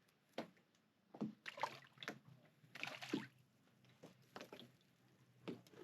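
Small, irregular splashes and slurps at the water's surface, about eight or ten quick ones: fish snatching pieces of stale bread thrown into the water.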